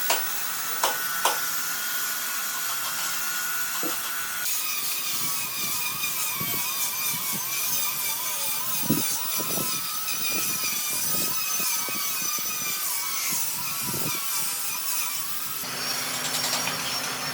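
A power tool running with a high, wavering whine, its pitch rising and falling as it works the wood; the sound changes abruptly about four seconds in and again near the end.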